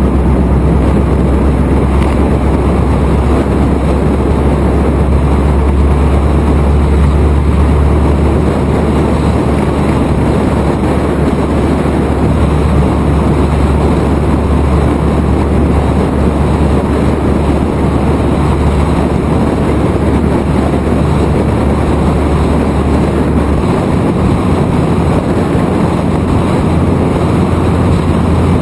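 Open-wheel Indy-style race car running steadily at speed, engine drone mixed with loud wind rush on the microphone. The deepest part of the engine note drops away about 23 seconds in.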